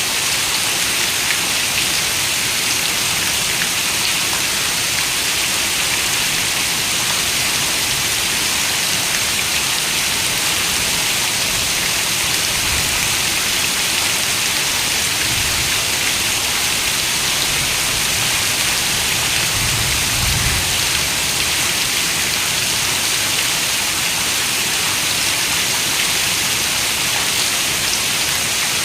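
Steady rain falling, an even bright hiss of raindrops with no break, and a brief low rumble underneath about twenty seconds in.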